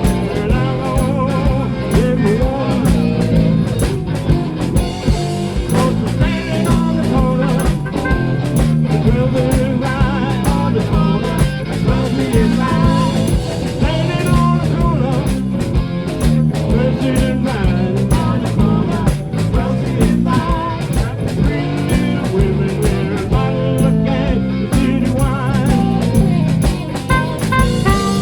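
Live blues-rock band playing with a steady beat: electric guitars and bass, with singing.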